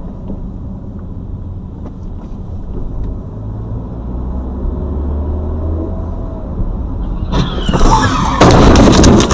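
Low road and engine rumble inside a moving car, growing slowly louder, then near the end a sudden, very loud crashing burst of impacts: a car collision.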